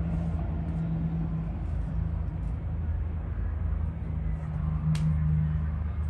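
Steady low rumble of motor traffic with a constant low hum, and one sharp click about five seconds in.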